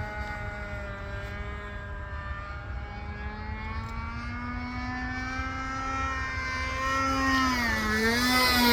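Radio-controlled Hot Canary model biplane in flight, its motor giving a steady buzzing note with many overtones. The pitch drifts slowly, dips and rises again about seven to eight seconds in, and the sound grows louder toward the end.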